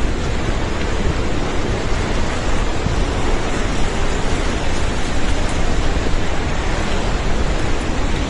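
Loud, steady rushing of a swollen, flooding river.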